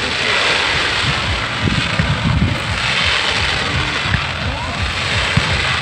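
Fireworks going off: a dense crackling hiss that swells and fades, with many short low thumps scattered through it.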